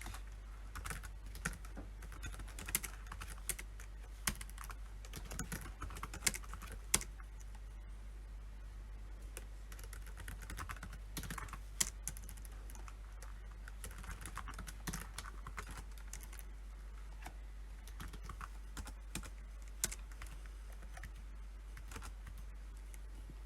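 Typing on a computer keyboard: irregular runs of key clicks with short pauses between them, thinning out in the last few seconds. A steady low hum lies underneath.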